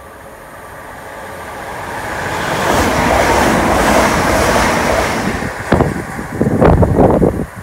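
A Class 325 Royal Mail electric multiple unit passing at speed: a rising rush of wheels on rail that peaks as it goes by, then several loud gusts of its slipstream buffeting the microphone near the end.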